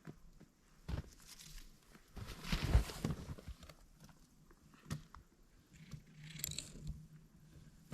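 Snowshoe footsteps crunching in fresh snow, a few uneven steps with the loudest crunch about a third of the way in.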